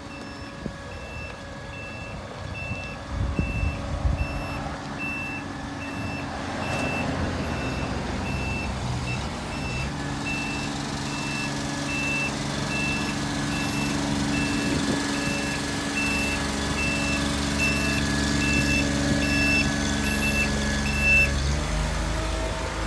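A truck warning beeper sounds a repeated high beep while the dump bed of a 2006 GMC C7500 bucket truck is raised, over the truck's engine running to drive the hydraulics. The engine sound grows steadier and louder about ten seconds in, and the beeping stops near the end.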